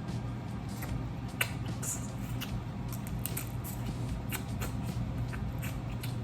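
Blue crab shells being cracked and picked apart while eating, giving many small irregular cracks and clicks with wet chewing, over a steady low hum.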